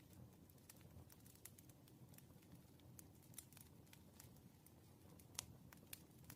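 Faint wood fire burning: a low steady rumble with scattered sharp crackles and pops, the loudest about five seconds in.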